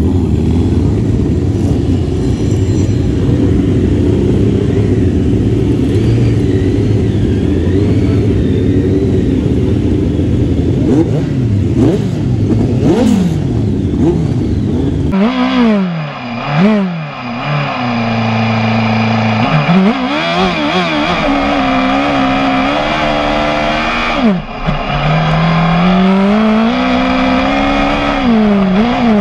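Several 1000cc grasstrack sidecar outfits running together on the start line, their engines revving. About halfway in it changes to a single racing engine heard from onboard, its pitch repeatedly rising and dropping with throttle and gear changes.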